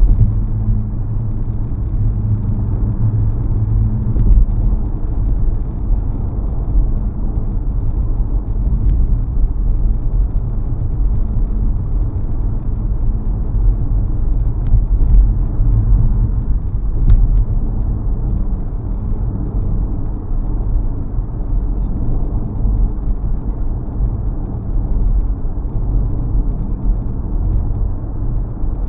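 A 2017 Nissan Rogue driving at steady speed: continuous low road and engine rumble, with no change throughout.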